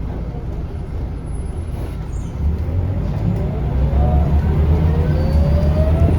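Scania L94UB bus heard from inside the cabin, its diesel engine rumbling and then getting louder about two seconds in as the bus pulls away, with a whine that rises steadily in pitch as it gains speed.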